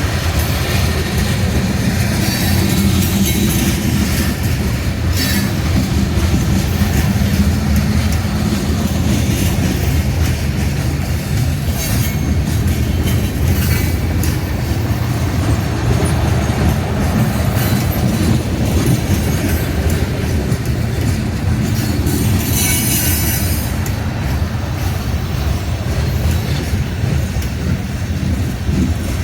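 Union Pacific coal train cars rolling past on the rails with a steady heavy rumble and clacking of wheels. High wheel squeals cut in briefly a few times, the longest about three quarters of the way through.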